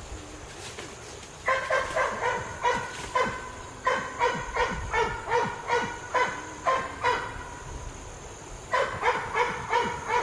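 A dog barking in quick runs of two to three barks a second, starting about a second and a half in, pausing for over a second near the end, then barking again.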